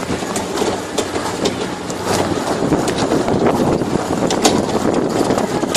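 Tractor-pulled barrel-ride train on the move: the tractor engine running steadily under a constant rumble, with frequent sharp clicks and knocks from the barrel cars rattling as they travel.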